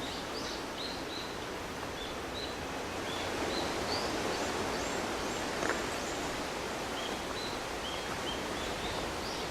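Steady outdoor background hiss with small birds chirping: short high chirps and a few rising notes scattered throughout, and a faint click a little past halfway.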